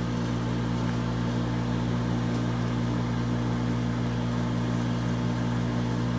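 Microwave oven running with a steady electrical hum while heating a bar of soap.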